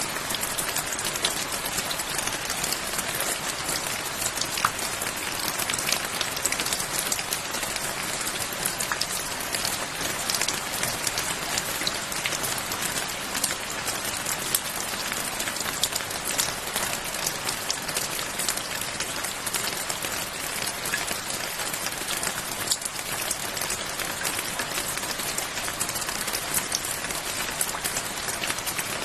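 Steady rain: an even hiss of falling rain with many individual drops ticking sharply throughout.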